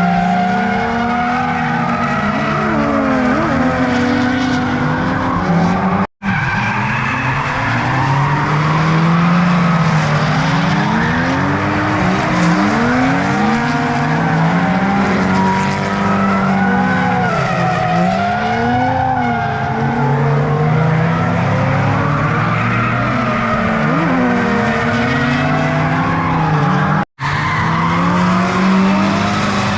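Several drift cars driving in a tight train, their engines revving up and down on top of one another over continuous tyre squeal and skidding. The sound cuts out completely for an instant twice.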